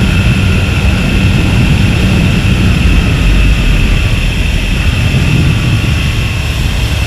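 Aprilia RSV V-twin motorcycle on the move: a steady engine drone under loud wind rushing over the microphone.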